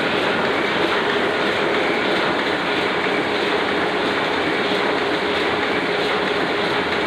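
Oliver offset printing press running at its normal working pace: a steady, even mechanical running noise with a faint steady tone through it.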